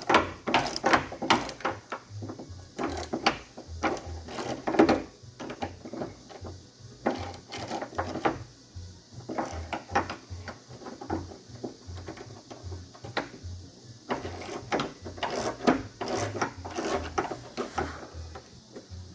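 Irregular metallic clicks and knocks of hand tools and loose latch parts being worked inside a truck door, as the door-latch Torx bolts are taken out.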